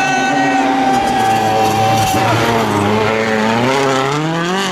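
Rally car engine held at high revs, then dropping about two seconds in and climbing again in pitch as the car accelerates.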